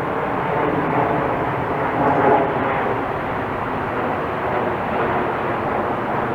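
Steady jet aircraft engine noise, an even rumble with no breaks or changes.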